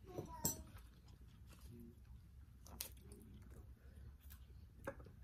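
A person chewing food with soft, wet mouth clicks; a few sharper clicks stand out about half a second in, near the middle and near the end.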